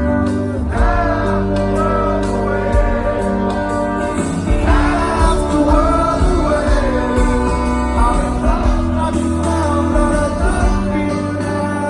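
Live rock band performing a song, with a sung lead vocal line over sustained bass and chords.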